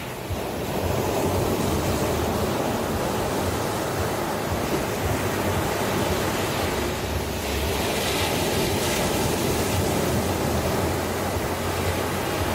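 Ocean surf washing in a steady, dense rush of breaking waves, swelling up about a second in and holding steady.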